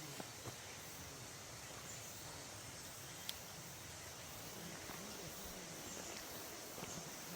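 Quiet forest ambience: a steady, even hiss with a single sharp click a little over three seconds in.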